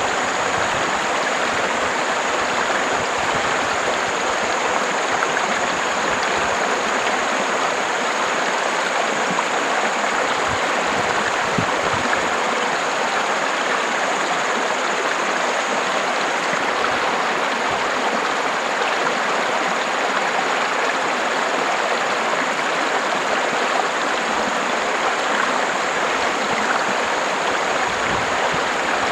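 River water running steadily, an even rushing flow.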